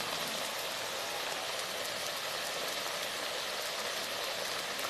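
Chicken chunks and chopped vegetables sizzling steadily in hot oil in a wok, just after chilli sauce and white vinegar have gone in.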